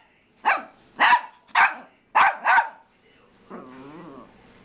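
A small Morkie dog barking: five sharp yaps in quick succession, about two a second. They are followed by a brief, quieter, wavering vocal sound.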